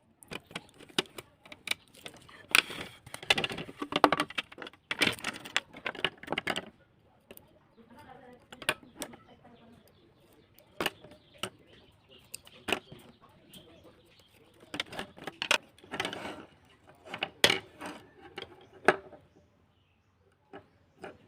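Small hard plastic and metal parts being handled and worked on by hand: irregular clicks, taps and short scrapes. The first several seconds hold dense rattling and scraping, then the clicks come singly and sparsely.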